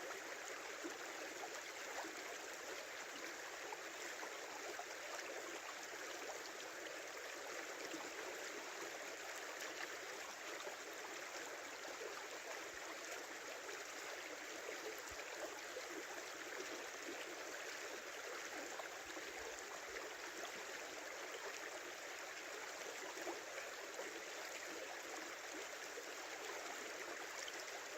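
Small river flowing, a steady rush and babble of running water.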